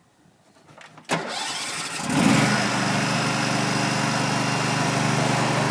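Orange tractor's engine being started: the starter cranks from about a second in, the engine catches about a second later and settles into a steady idle.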